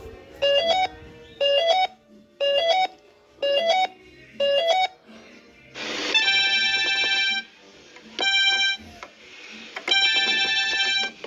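Electronic keyboard-like tones: five short two-note blips about once a second, then three longer held tones.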